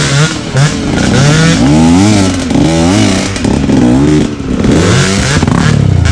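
Off-road motorcycle engine revved up and down over and over, the pitch climbing and dropping about once a second as the throttle is worked hard.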